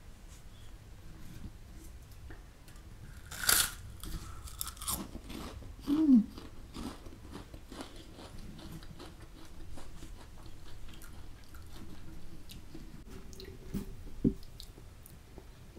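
Loud crunching bite into a crisp fried sabudana (sago) papad about three and a half seconds in, then close-miked crunchy chewing with dense crackles that thin out over the next several seconds. A single sharp knock near the end.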